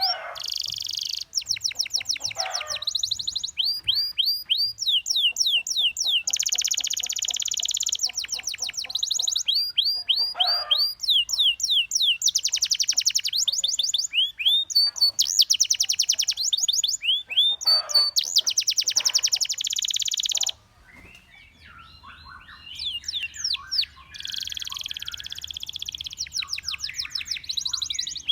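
Domestic canary singing: long trilled rolls of rapidly repeated, high sweeping notes, changing from one roll to the next. There is a short break about two-thirds of the way through, then softer notes before the trilling picks up again.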